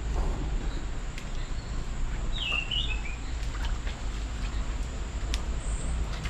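A bird gives one short, wavering chirped call about two and a half seconds in, over a steady low rumble and a few faint clicks.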